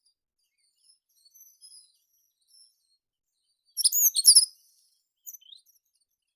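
Meadow birds singing in a quiet field. Faint, high twittering comes first, then a loud burst of quick, sharply falling chirps about four seconds in, then a few faint notes.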